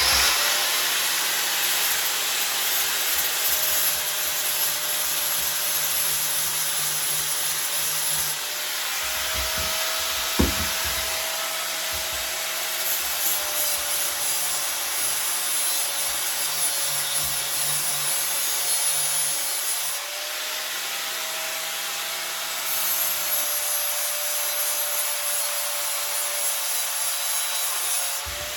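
Electric angle grinder running steadily while grinding down fresh welds on a steel pit bike frame, a motor whine over a dense grinding hiss. A short knock comes about ten seconds in.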